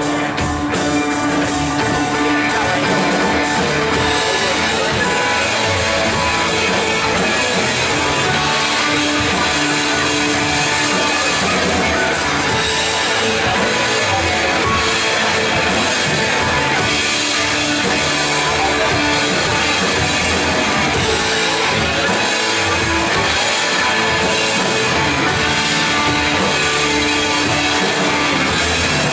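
A band playing loud, upbeat rock music with electric guitar and a drum kit.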